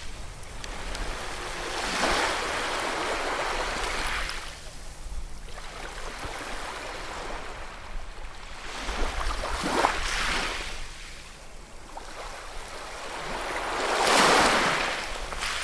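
Sea waves surging and receding in three swells, the last and loudest near the end.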